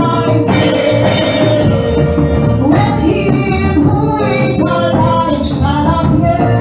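Live gospel worship music: a band playing with singing.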